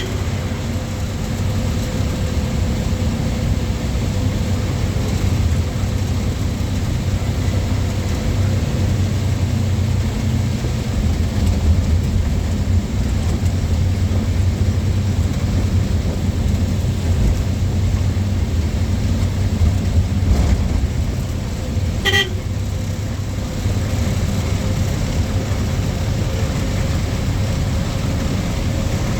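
Truck engine and road noise heard from inside the cab as a steady low drone, with a brief horn toot about three-quarters of the way through.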